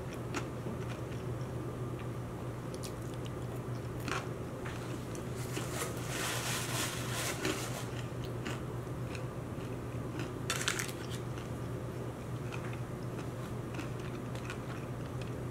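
Close-miked chewing and biting of crunchy fried plantain (tostones), with scattered small crunches and a denser run of crunching around the middle.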